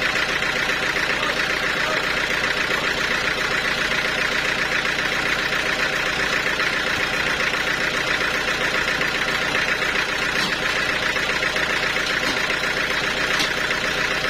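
Sawmill machinery running steadily, an engine-driven saw giving an even, unbroken mechanical drone.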